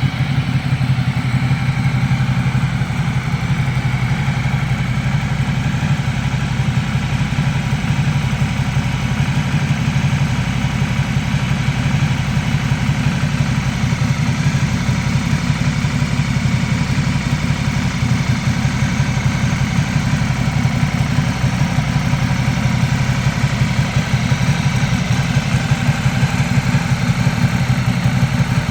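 Ducati Multistrada 1200's V-twin engine idling steadily, with no revs.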